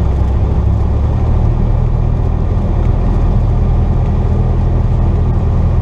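Cessna 172's piston engine and propeller running steadily, with a slight change in engine note about a second in.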